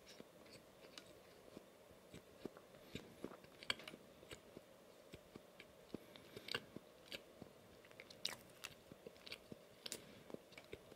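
Close-miked chewing of a soft red velvet donut: wet mouth clicks and smacks at an irregular pace, a few a second, a couple a little louder near the middle and about two-thirds of the way through.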